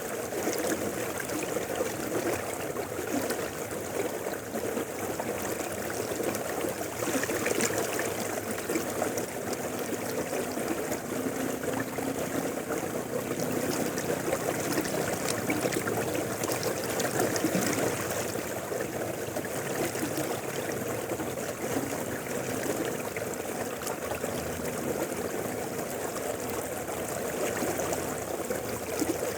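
Mountain river flowing steadily over rocks, a continuous rushing and trickling of water.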